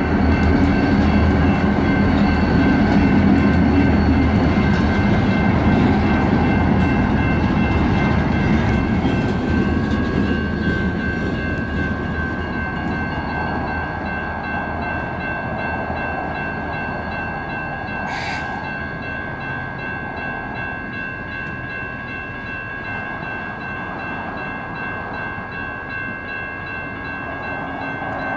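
Union Pacific GP40-2 diesel locomotives rumble across a grade crossing and fade away over the first ten seconds or so as the train moves off. The crossing's electronic warning bells ring steadily the whole time. One sharp click comes about eighteen seconds in.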